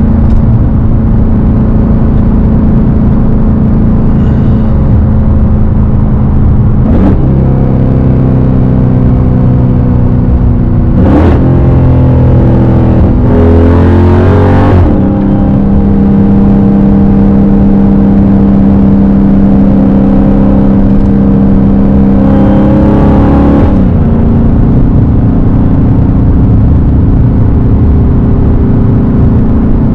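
Dodge Hellcat's supercharged Hemi V8 running through a straight-piped exhaust while driving. It holds a steady drone whose pitch rises and falls several times, with the loudest rev about halfway through.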